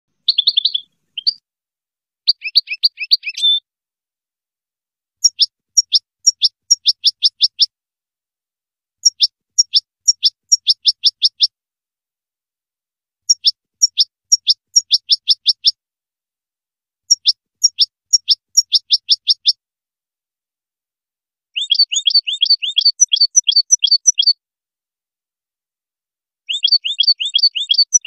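A bird calling in repeated bursts of quick, sharp chirps, about six a second, each burst lasting two to three seconds and coming back every four seconds or so, with silence between.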